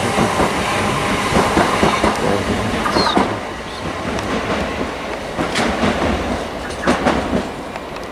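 Southern Class 377 Electrostar electric multiple unit pulling away and receding, running over rail joints and pointwork. Its wheels give a clickety-clack with a few sharp knocks, and it fades as it goes.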